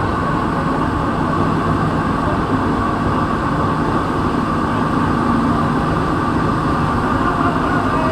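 Santiago Metro NS-16 rubber-tyred train running at speed between stations, heard from inside the car: a loud, steady running noise of tyres and motors with a constant hum.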